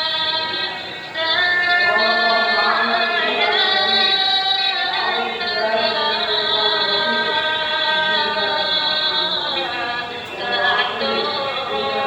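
Music with a sung melody of long held notes that waver and bend in pitch. There is a short dip in level about a second in.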